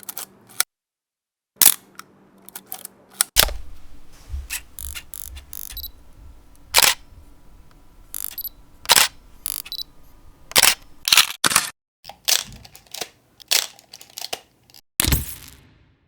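Camera shutter clicks: a long series of sharp single and paired shutter releases at irregular intervals.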